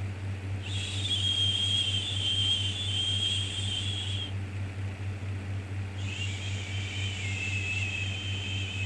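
Long soothing 'shhh' shushing sounds, each about three and a half seconds with a slight whistle in the hiss, coming twice with a short pause between, over a steady low hum.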